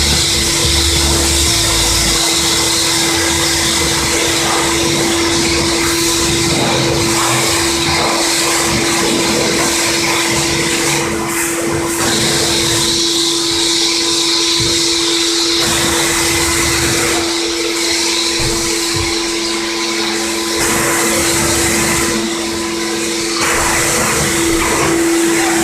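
High-pressure washer spraying a car's engine bay: a steady hum throughout, with the hiss of the spray stopping and starting several times.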